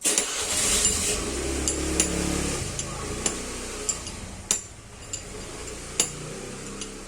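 Metal parts and tools clinking sharply every half second to a second, as a sugarcane press is worked on. A burst of rushing noise with a low hum starts suddenly at the outset and fades over about three seconds.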